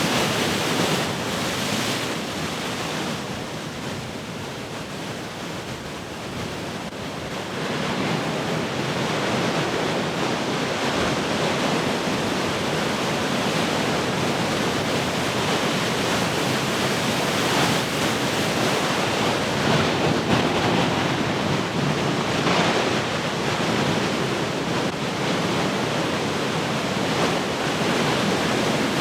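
Heavy ocean surf: waves breaking and washing in a continuous rush of noise. It eases a few seconds in, then builds again, with stronger breakers around the middle.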